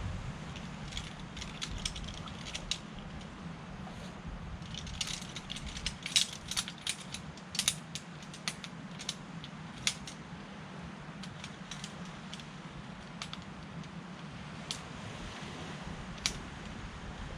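Irregular sharp clicks and light clatter of small hard objects being handled, bunched most thickly in the middle, over a steady low rush of wind.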